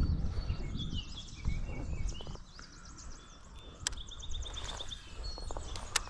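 Songbirds singing, with chirps and rapid trills of evenly repeated notes. There is a low rumble in the first couple of seconds, and two sharp clicks, one about four seconds in and one near the end.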